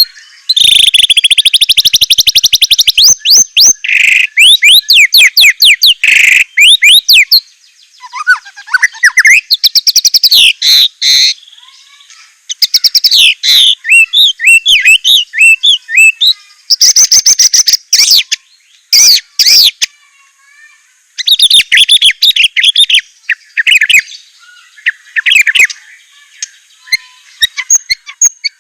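White-rumped shama (murai batu) singing loud, rapid bursts of trills, chattering and whistled glides, with short pauses between phrases. This is a varied song of learned phrases.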